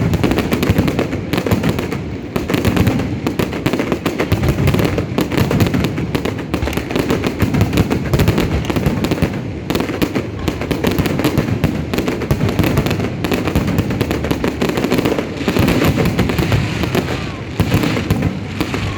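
Aerial fireworks display going off in a dense, continuous barrage of booms and crackles, with no pause.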